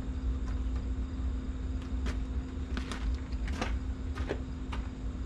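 Several short, sharp plastic clicks and taps from handling trim push-pin clips and the spoiler trim panel, scattered through the middle few seconds, over a steady low hum.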